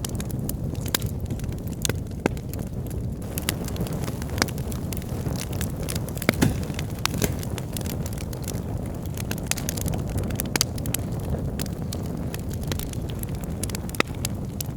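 Wood fire burning in a fireplace: a steady low roar of flames with frequent irregular sharp crackles and pops from the burning logs, one louder pop about six seconds in.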